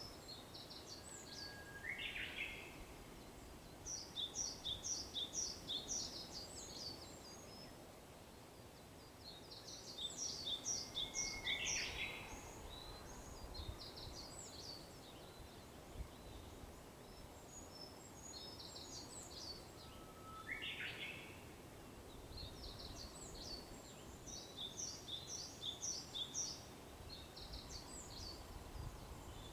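Japanese bush warbler singing its 'hoo-hokekyo' song three times, each a held low whistle breaking into a quick rising flourish. Between the songs, another small bird repeats rapid series of high chirps.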